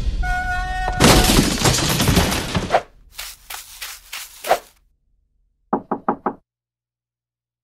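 Cartoon sound effects: a loud, noisy rush lasting about two seconds, then scattered sharp knocks, and a run of four quick knocks near the end as a Lego minifigure climbs onto a crawler crane's track.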